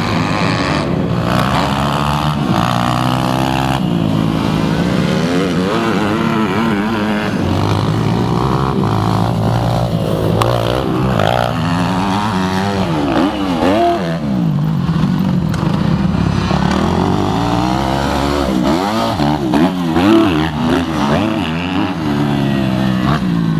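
Several motocross bikes running on a dirt track, their engines overlapping and repeatedly revving up and dropping back as they ride.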